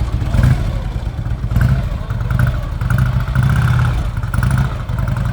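Vincent Black Shadow motorcycle's 998 cc V-twin engine running, its sound swelling and falling unevenly with a pulsing beat.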